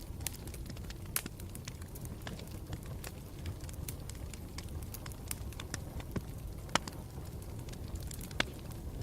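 Campfire burning: a steady low rumble of flames under frequent sharp crackles and pops, with two louder pops about two-thirds of the way through and near the end.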